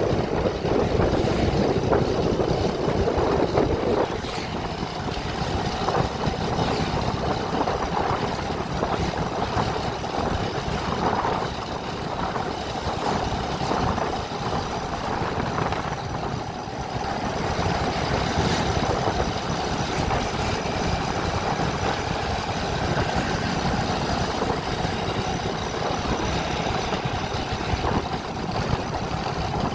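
A vehicle engine running steadily with road noise while driving, easing slightly about four seconds in.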